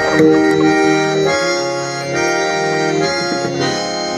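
Harmonium playing sustained reed chords and melody as bhajan accompaniment between sung lines, the held notes shifting to new pitches a few times.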